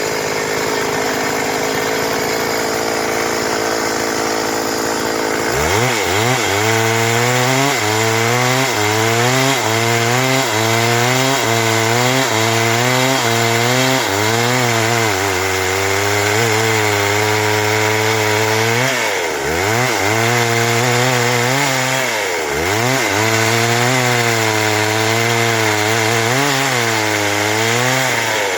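Stihl MS 382 two-stroke chainsaw running steadily at low speed, then revved up about five seconds in and cutting through wood, its pitch wavering up and down under load and dipping briefly twice in the second half.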